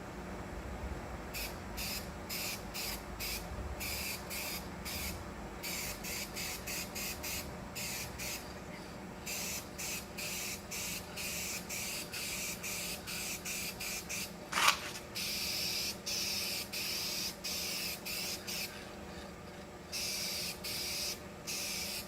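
Aerosol spray can laying down a colour coat of paint: short hissing bursts, two or three a second, then a few longer passes in the second half. A single sharp knock about two-thirds of the way through is the loudest sound.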